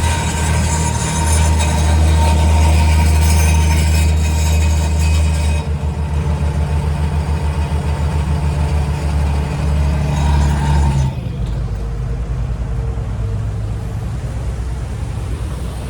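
A river ferry's engine running with a steady low hum, with a loud hiss of wind on the microphone that stops about a third of the way in; the hum drops lower and quieter near two-thirds of the way through.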